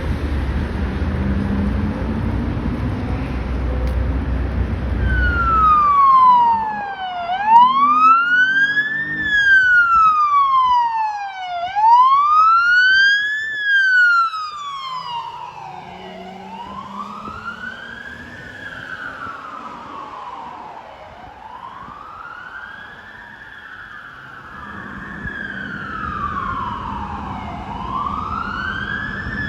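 Low traffic and engine rumble, then from about five seconds in a police car's electronic wail siren, sweeping slowly up and down about once every four seconds. It is loudest in the first few cycles and fainter after that.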